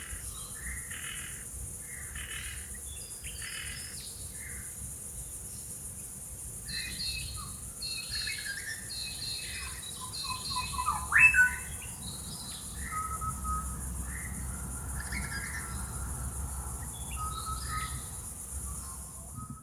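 Outdoor birdsong: several birds chirping and calling on and off, with a steady high-pitched hum like insects underneath. One louder, rising call about eleven seconds in.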